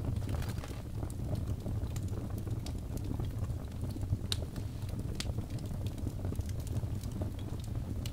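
Birch log fire crackling in a fireplace: scattered sharp pops and snaps over a low, steady rumble of the flames, with a louder pop about four seconds in.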